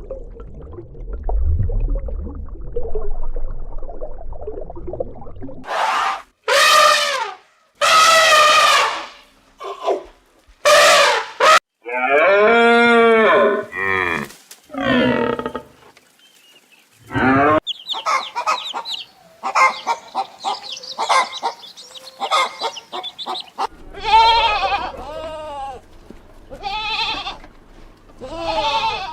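Farm animals calling: a run of loud, drawn-out calls of about a second each, several rising and falling in pitch, after a low rumbling noise in the first few seconds.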